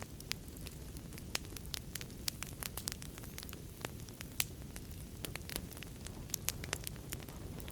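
Fire in a fireplace crackling: frequent irregular sharp snaps and pops over a steady low rumble of the flames.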